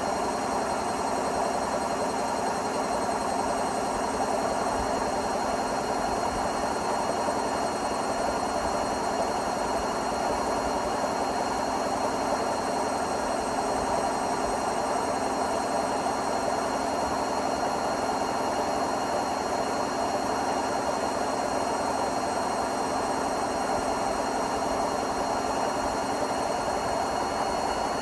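Hotpoint Smart Tech WMFUG742 washing machine running steadily, its drum motor giving an even hum and whine at a constant speed, with no knocks.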